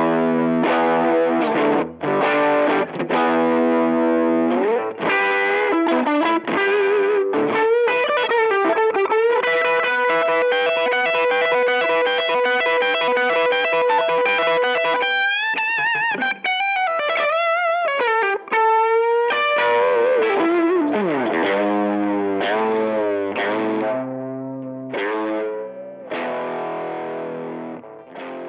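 Electric guitar played through a TC Electronic MojoMojo overdrive pedal, giving a driven tone: chords, then a long held note in the middle that is bent and wavers, then more chords that fade out near the end.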